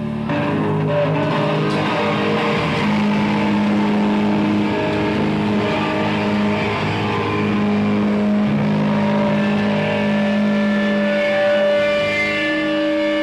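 Electric guitars through effects, playing a droning intro of long held notes over a steady noisy wash, before the song starts.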